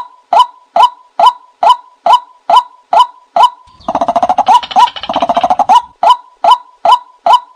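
Decoy recording of a bird known in Thai as nok kai na, calling a short note over and over, about three a second; for about two seconds in the middle the calls run together into a fast chattering series, then the steady calls resume.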